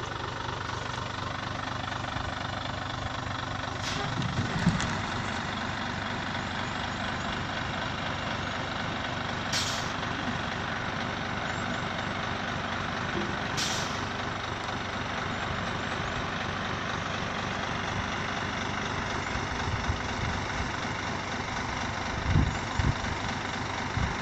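Scania 112H 6x6 truck's six-cylinder diesel engine running steadily, with two short sharp hisses of air, typical of the air brakes, about ten and fourteen seconds in.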